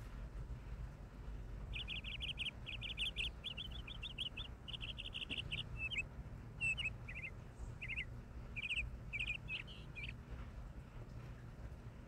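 A songbird singing a long run of quick, high chirping notes and short trills, starting about two seconds in and stopping about ten seconds in, over a low steady background rumble.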